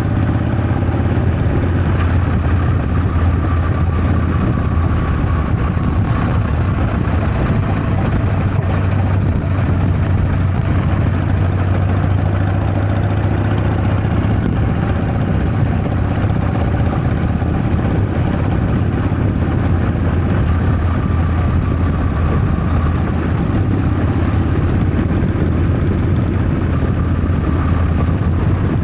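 Harley-Davidson Sportster's air-cooled V-twin engine running steadily, with a slight rise and fall in pitch a couple of times.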